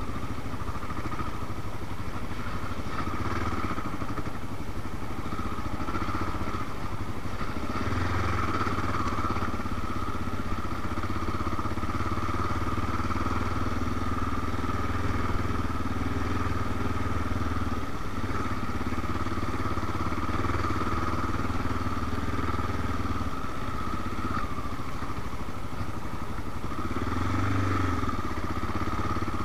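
Honda XR650L dirt bike's air-cooled single-cylinder four-stroke engine running steadily as the bike is ridden along a dirt trail.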